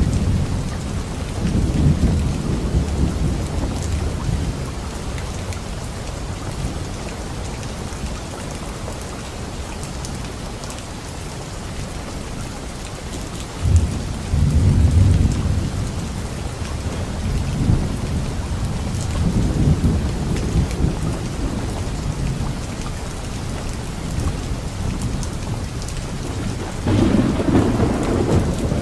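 Steady rain falling during a thunderstorm, with thunder rumbling several times: near the start, a sharper clap rolling into a rumble about halfway through, again shortly after, and once more near the end.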